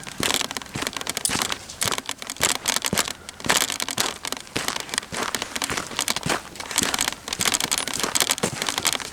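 Footsteps crunching and rustling through dry leaves and twigs, an irregular run of crackles.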